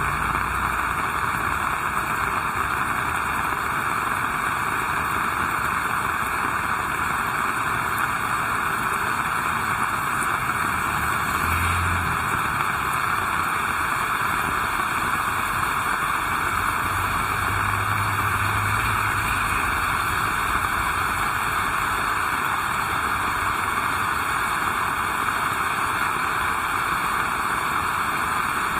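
Heavy rain falling steadily: a dense, even hiss with no break.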